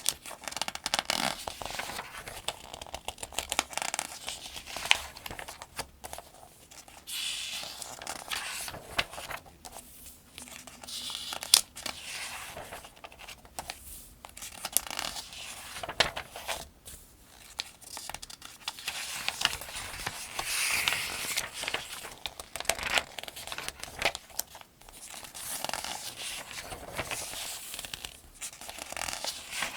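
Pages of a paperback almanac being turned one after another, each turn a rustle and swish of thin newsprint-like paper lasting a second or two. There are a few sharp crisp snaps among the rustles, the loudest about eleven and a half seconds in.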